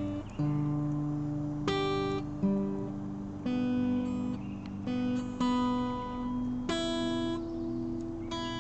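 12-string acoustic guitar being tuned: single strings plucked one at a time and left to ring, with a held pitch shifting between plucks as the pegs are adjusted.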